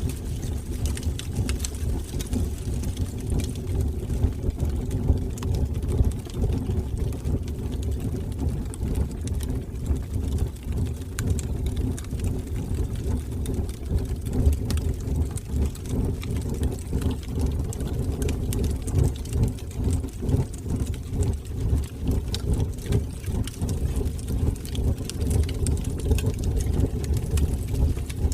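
Fire burning in a fireplace: a steady low rumble of flames with frequent small crackles and pops scattered throughout.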